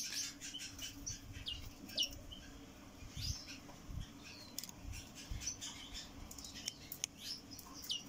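Small birds chirping outdoors: scattered short, high chirps and quick falling call notes, faint over a low steady background hum, with a few soft low thumps near the middle.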